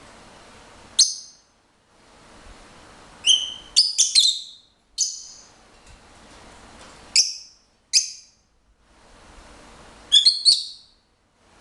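Lovebird giving short, sharp, high chirps, some single and some in quick runs of three or four, about a dozen in all.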